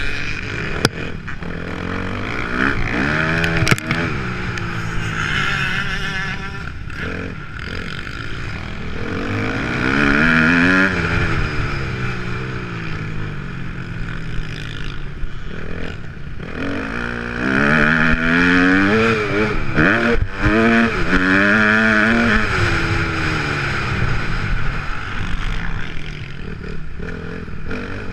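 Kawasaki KX250F dirt bike's single-cylinder four-stroke engine revving up and falling back over and over as it is ridden hard round a motocross track, with a few short knocks.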